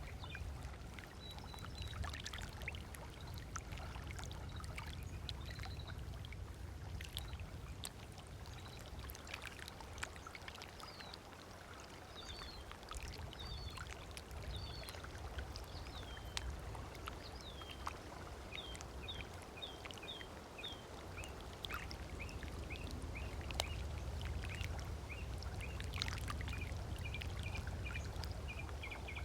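Small waves lapping and splashing on a lake shore, with birds calling over it in series of short, quickly repeated chirps through the middle and latter part.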